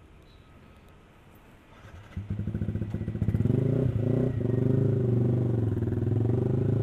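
Yamaha R15 V3 sport bike's single-cylinder engine, fitted with an aftermarket exhaust, starting about two seconds in. It then runs steadily at low revs as the bike rolls off.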